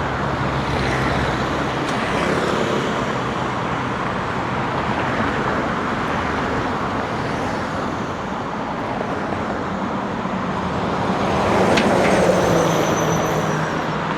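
Steady road traffic noise, with the hum of vehicle engines and one vehicle passing closer and louder about twelve seconds in.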